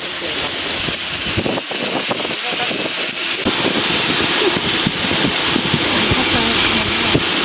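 Heavy rain pouring steadily, with many drops striking close by.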